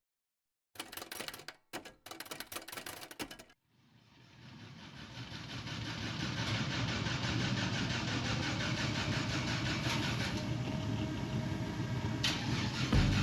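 A vehicle engine running, fading in over a couple of seconds and then holding steady, after about three seconds of broken crackling near the start.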